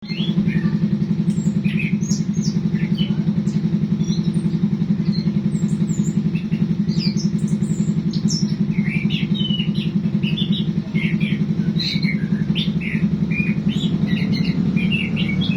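Small birds chirping in many short, quick calls over a loud, steady low motor-like hum that pulses quickly and evenly.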